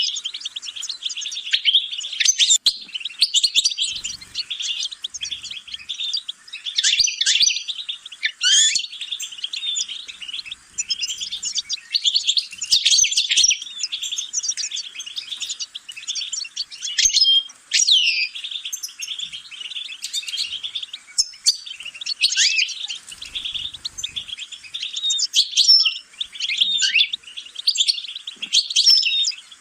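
A finch singing a long, fast twittering song of quick rising and falling notes and trills, with only brief pauses.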